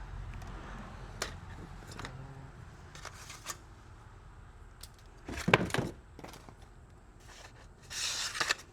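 Side cutters snipping zip ties on a new e-bike: a few sharp clicks, with the loudest cluster of snips about five and a half seconds in, then a short rustle near the end.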